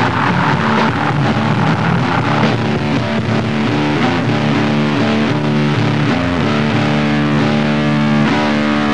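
Heavy grindcore-style music: distorted electric guitar holding sustained chords that change every second or two.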